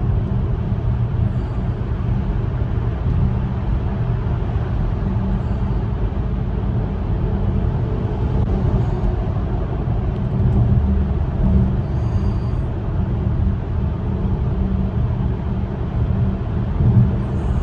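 Steady road noise from a vehicle driving through a road tunnel, heard from inside the cabin: a constant low rumble of tyres and engine.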